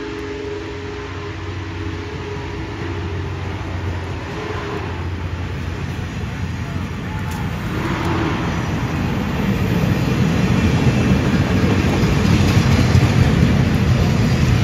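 Union Pacific passenger cars rolling past on the rails: a steady rush of wheel and rail noise that grows louder.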